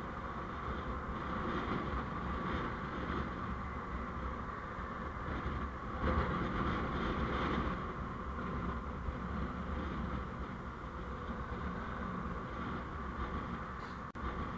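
Steady vehicle running and road noise picked up by a dash camera's microphone, swelling slightly around the middle, with a momentary dropout near the end.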